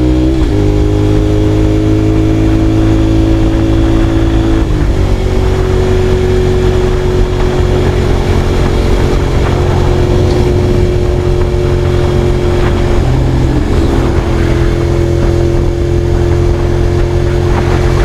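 Honda VTR250's 250 cc V-twin breathing through a WR'S full exhaust system with a carbon silencer, running at steady revs while the bike is ridden. The engine note shifts briefly about half a second in and again near five seconds in, then holds steady.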